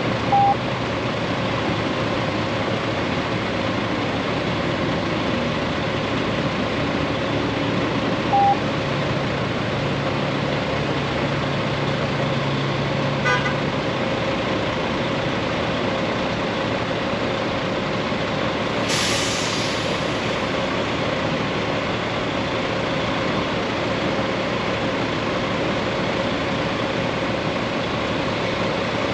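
Honda Gold Wing's flat-six engine running steadily under wind and road noise while riding in traffic. There are two short beeps, one just after the start and one about eight seconds in. About 19 seconds in comes a sharp hiss that fades within a second or so, like a nearby bus's or truck's air brake.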